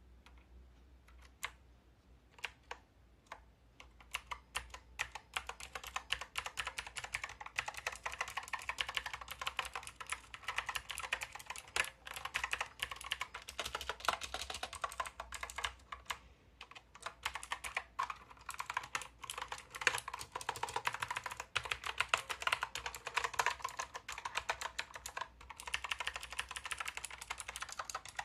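Typing on a Hansung Gtune MKF30 mechanical keyboard with clicky blue switches: a few separate keystrokes, then fast continuous typing from about four seconds in.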